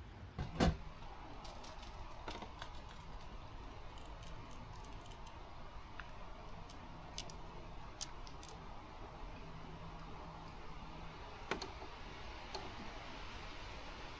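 One sharp knock about half a second in, then scattered light clicks and taps, as of small objects being handled, over a faint low hum that stops about eleven seconds in.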